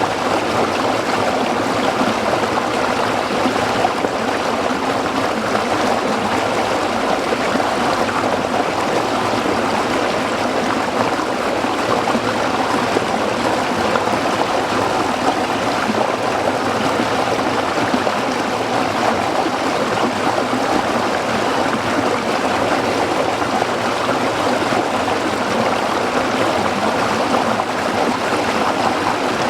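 A small stream running over rocks, a steady babbling and gurgling with no pauses or sudden sounds.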